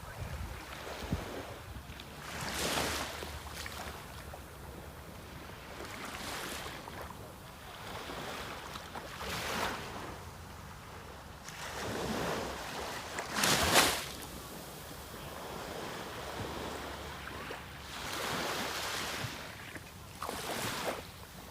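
Sea waves breaking and washing in, a rush of surf swelling and fading every few seconds, the loudest about two thirds of the way through. Wind buffets the microphone with a low rumble underneath.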